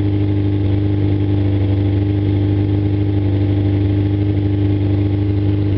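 Suzuki GSX-R750 inline-four engine idling steadily on its first start-up after being brought back from a non-running state.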